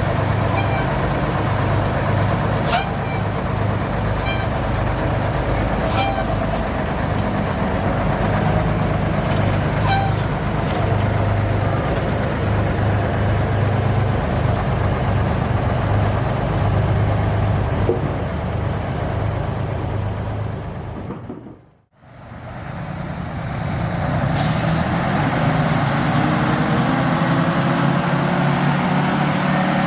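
Detroit Diesel truck engine running with a pulsing low beat and a few sharp clicks, fading out about two-thirds of the way through. Another diesel truck engine then comes in, its pitch slowly rising as it revs up.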